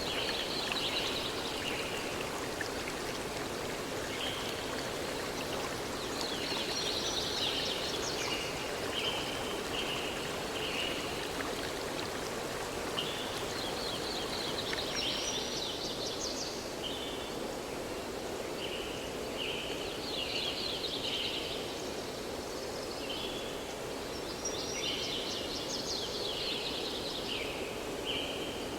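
A songbird singing the same phrase over and over, about every six seconds: a quick jumble of high notes followed by a few short separate notes. Under it runs the steady rush of flowing stream water.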